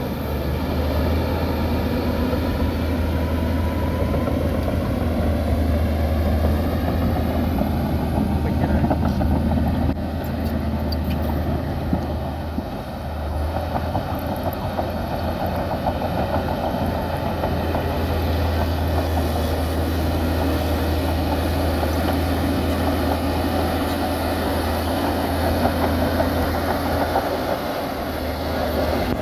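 Heavy diesel engine of earthmoving machinery running continuously, its pitch drifting slowly up and down as the engine speed changes.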